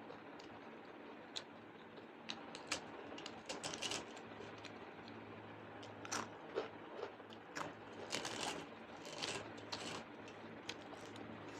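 Close-up eating sounds: chewing and crunching with irregular sharp clicks and crackles, busiest in the second half, over a faint steady hum.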